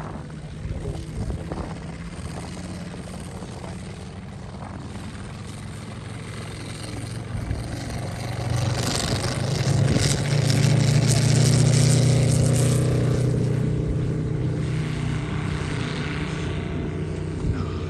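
Moki 300 five-cylinder radial engine of a large-scale RC TBF Avenger model in flight, a steady propeller drone that swells as the plane passes close around the middle, then fades away.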